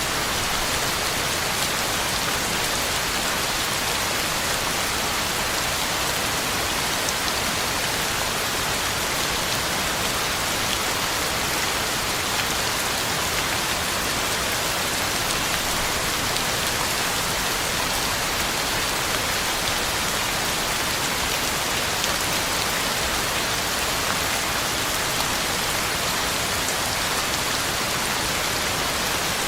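Heavy rain falling steadily, a constant even hiss of drops hitting the ground and leaves, with no change in strength.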